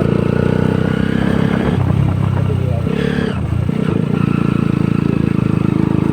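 Honda CBR150R's single-cylinder four-stroke engine running while riding. The engine note dips briefly about three seconds in, then picks up again.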